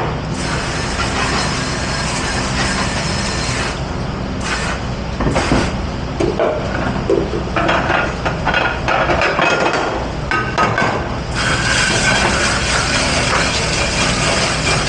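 Commercial dish-pit work: dishes clattering and knocking against each other in quick irregular strikes, over a constant machine hum. A steady hiss runs for the first few seconds and comes back near the end.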